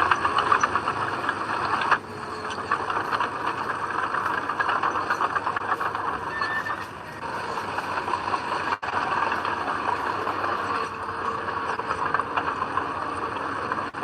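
Heavy diesel earthmoving machinery running under load, with a dense, rapid rattling clatter; the sound breaks off sharply twice, about 2 and 9 seconds in.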